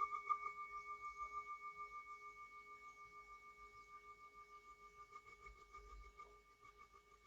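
A singing bowl ringing out after being struck, fading slowly with a regular pulsing wobble in its tone.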